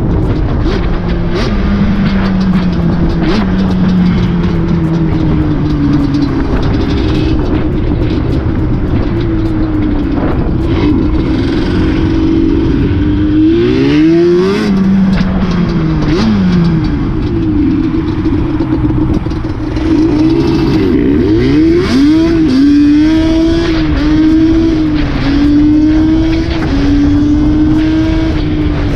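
A motor vehicle engine running under way, its pitch sinking slowly, then rising sharply with throttle about halfway through. Near the end it swings up and down in a string of short revs.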